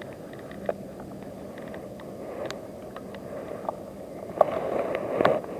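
Bicycle being ridden: a steady rolling rumble with irregular sharp clicks and knocks. It gets louder and rougher about four and a half seconds in.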